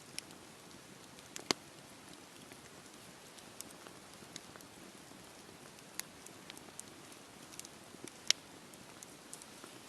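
Wood fire crackling in a fireplace: a faint steady hiss with scattered sharp pops, the two loudest about a second and a half in and about eight seconds in.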